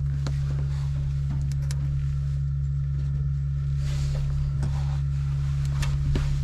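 A steady low engine hum, unchanging in pitch, with a few light clicks and knocks scattered through it.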